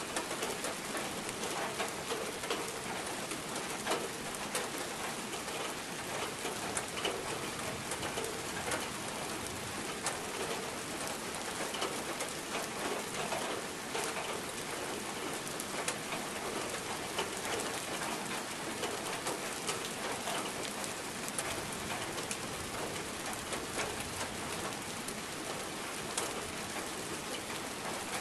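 Steady rain falling, a dense hiss of many small drop patters, with a bird calling now and then.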